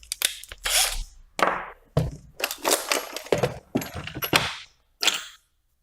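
Irregular scraping and knocking strokes of a hand tool cutting a chamfer into the screw hole of a 3D-printed plastic part, about eight strokes with short pauses between them.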